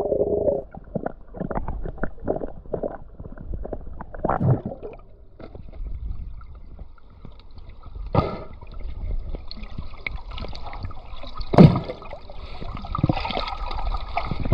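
Stream water gurgling and sloshing around a swimmer, with irregular knocks and small splashes. From about eight seconds in, a steady higher hiss joins, and two sharp splashes stand out, the louder one about three seconds later.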